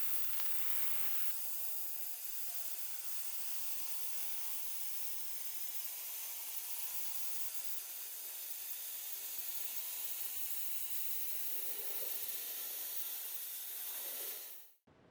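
Steady hiss of spray painting. It cuts off suddenly near the end.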